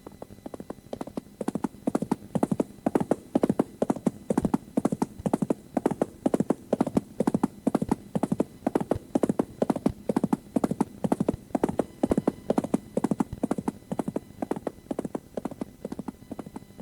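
Recorded sound effect: a long rhythmic run of hollow knocks in quick groups, fading in over the first couple of seconds and out near the end.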